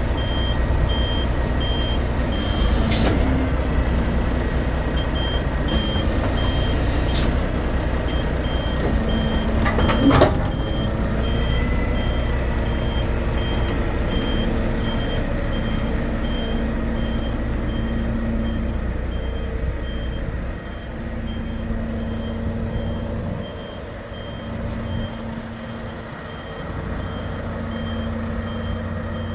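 Volvo FM 460 truck running, with its reversing alarm beeping steadily at about two to three beeps a second. A few short sharp noises cut in, the loudest about ten seconds in. The engine sound drops lower after about twenty seconds while the beeping goes on.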